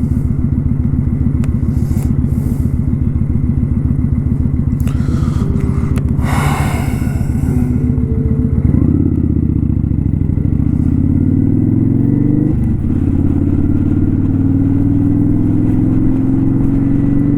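Kawasaki Vulcan 900 Custom's V-twin engine running under way. The engine note changes about halfway through, then rises slowly as the bike accelerates, with a brief rush of noise about six seconds in.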